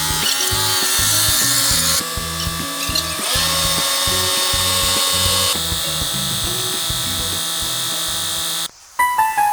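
Background music over steady power-tool noise, a hissing whir like a drill. The tool noise changes abruptly about two and five and a half seconds in, and the sound cuts out briefly near the end.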